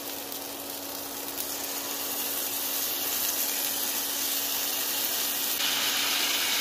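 Marinated chicken wings sizzling in hot oil in a frying pan as they are added, a steady hiss that grows louder and jumps up near the end as the pan fills. A faint steady low hum runs underneath.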